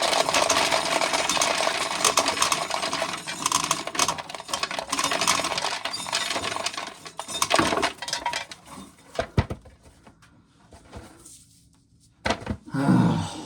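Corn sheller at work, shelled kernels clattering and rattling down into a container in a dense stream for about seven seconds. It then stops, leaving a few scattered clicks and knocks.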